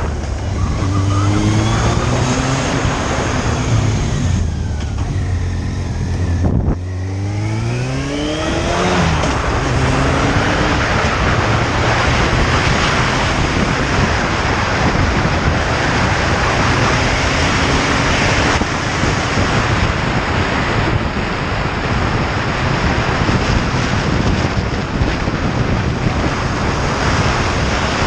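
Motorcycle engine accelerating through the gears, its pitch climbing and then dropping at each shift over the first several seconds, after which a steady rush of wind noise at speed covers the engine.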